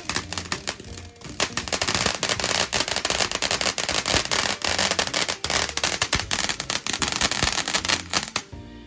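Consumer fireworks finale going off: a dense, rapid string of pops and crackles. It thickens about a second in and stops abruptly near the end.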